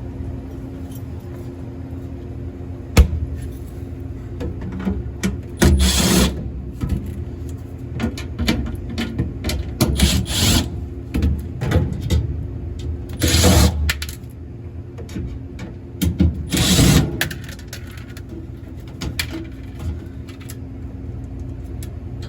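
Cordless drill-driver running in short bursts of about a second each, backing out the screws that hold a prep table's back panel. Knocks and handling noises fall between the bursts, with a sharp knock early on.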